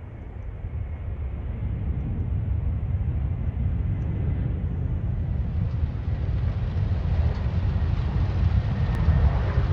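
Low, steady rumble of an aircraft growing louder as it approaches.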